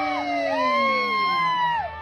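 Crowd of spectators cheering with several long, overlapping drawn-out shouts that rise and fall in pitch.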